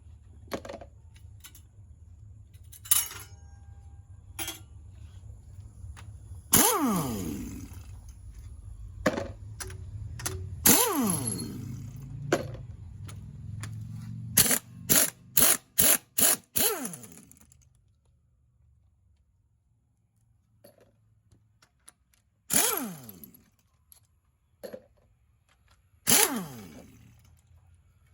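Power tool zipping bolts off an engine in several short runs, each falling in pitch as it winds down, with a quick string of short bursts near the middle. Scattered metal clicks from tools come between the runs, over a low hum that stops a little past halfway.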